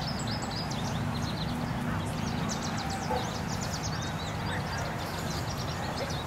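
Small birds chirping in quick runs of short, high notes, over a steady low hum and faint distant voices.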